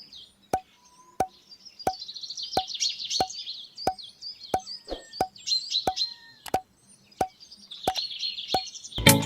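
Regular plop-like clicks, about one and a half a second, with birds chirping and trilling over them. Music comes in loudly just before the end.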